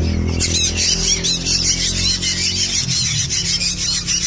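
Young black drongo chicks calling in a fast, unbroken run of high, squeaky notes, starting about half a second in.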